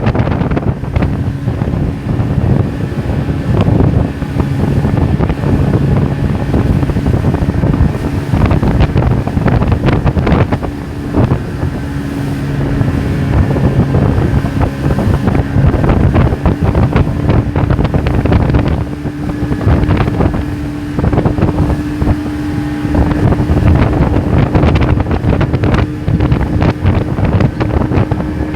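A motorboat's engine running at a steady pitch under a loud rush of wind and water, with wind buffeting the microphone.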